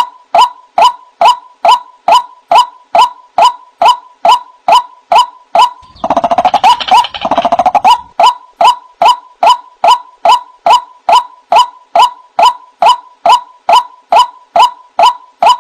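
White-breasted waterhen calling: a monotonous series of 'wak' notes, about three a second, each dropping slightly in pitch. From about six to eight seconds a louder, denser chattering burst overlaps the series.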